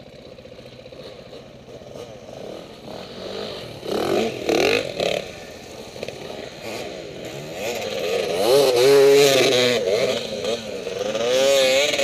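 KTM 450 four-stroke dirt bike engine revving in bursts, its pitch rising and falling quickly as the throttle is worked. It runs quieter at first and is loudest about four seconds in and again from about eight seconds on.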